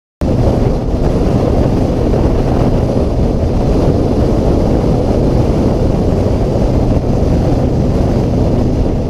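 Motorcycle under way at a steady speed: loud wind rushing over the microphone, with the engine's steady drone underneath. It cuts in suddenly just after the start.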